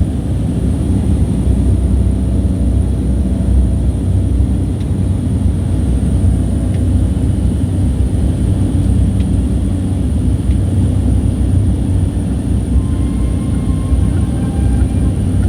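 Steady drone of a small propeller plane's engines and airflow, heard from inside the cabin in flight.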